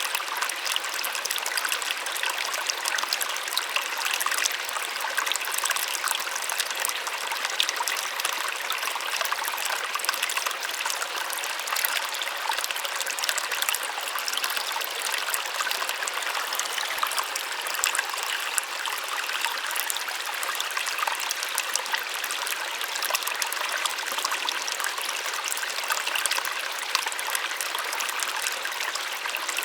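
Small waterfall splashing and rushing steadily, a bright hiss of falling water with little low rumble.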